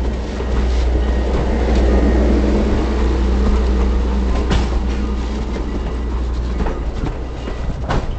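Passenger train rolling along the track with a steady low rumble, and two sharp clanks, one about halfway through and one near the end.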